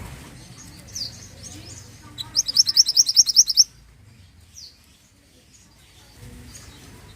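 Mantenan songbird singing: a few short high chirps that sweep downward, then a loud fast trill of about ten notes a second that lasts over a second, then another single chirp.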